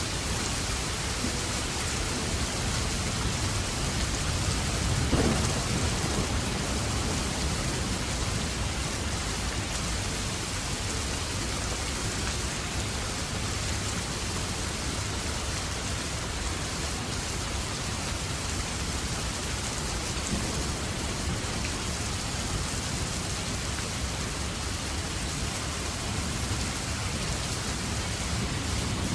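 Steady rain falling, an even hiss. About five seconds in, a brief low rumble of thunder swells up.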